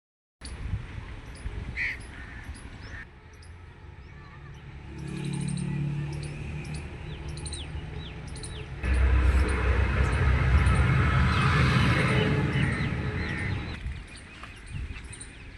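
Birds calling and chirping, with crows cawing. From about nine seconds in to about fourteen, a louder low rumble takes over and then stops.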